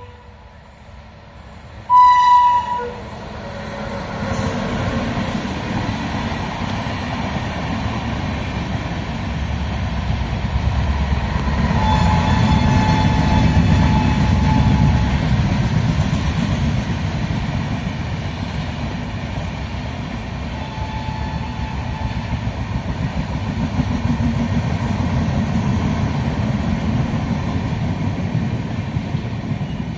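An Indian Railways WAP-7 electric locomotive sounds its horn in a short blast about two seconds in. The Rajdhani Express then rumbles past on the rails, the noise of wheels and coaches building to its loudest near the middle and carrying on steadily.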